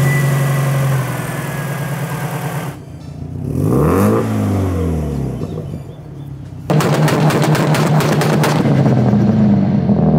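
Modified Subaru Impreza's turbocharged 2.0-litre flat-four running through a 3-inch downpipe and Milltek exhaust: idling, a quick rev that rises and falls about four seconds in, then from about seven seconds a louder rough stretch with rapid crackles before it settles to a higher steady idle.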